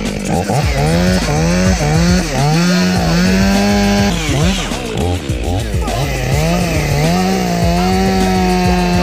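Two-stroke chainsaw cutting wood. Its pitch dips repeatedly as the chain loads up in the cut and climbs back as it frees.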